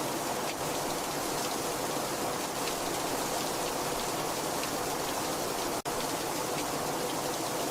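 Heavy rain falling steadily: a dense, even hiss with individual drops ticking through it. The sound cuts out for a split second near the end.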